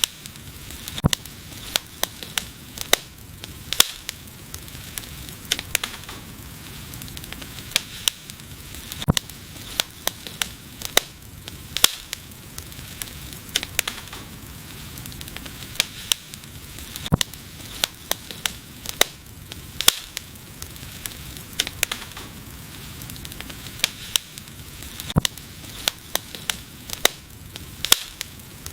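Wood fire burning: a steady hiss and sizzle under frequent sharp, irregular crackles and pops, some much louder than others.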